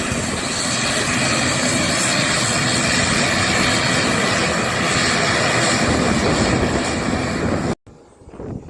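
Airliner engines running at take-off power: a loud, steady rush of engine noise that cuts off abruptly near the end.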